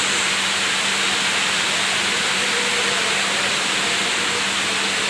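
Heavy rain falling in a steady, even hiss, with a faint steady low hum underneath.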